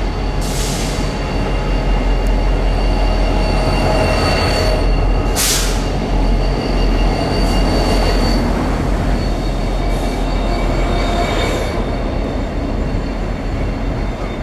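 A train rolling past with a steady heavy rumble, its wheels squealing in several high steady tones against the rails. A few short hissing bursts, the loudest about five seconds in.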